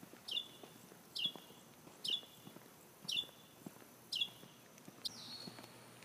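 A bird calling over and over, a short high downslurred note about once a second, six times, the last a little longer.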